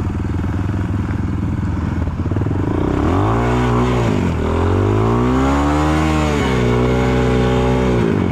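Trail motorcycle engine running at a steady low speed, then revved hard three times in long rising-and-falling swells before dropping back near the end.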